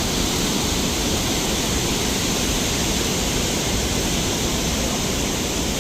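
Steady rushing roar of white water, an even hiss and rumble with no breaks.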